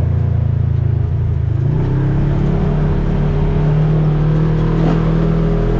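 Polaris RZR side-by-side engine running under way. It picks up revs about a second and a half in, then holds a steady higher pitch.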